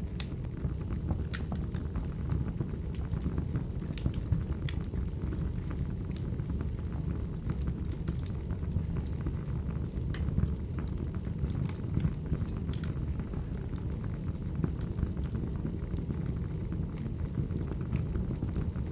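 Firewood burning: a steady low rumble of flames with irregular sharp crackles and pops from the wood every second or two.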